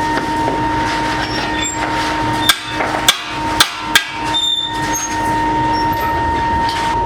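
Hammer striking metal: four sharp, ringing blows about half a second apart around the middle, over a steady machine hum.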